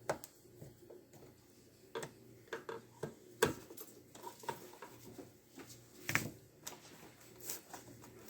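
Irregular light clicks and taps of a Torx screwdriver and loose screws against the plastic housing of a Shark robot vacuum, as its wheel motor screws are taken out.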